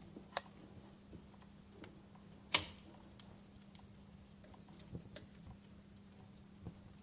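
Wood fire crackling in a fireplace: scattered small pops and snaps, with one loud sharp pop about two and a half seconds in.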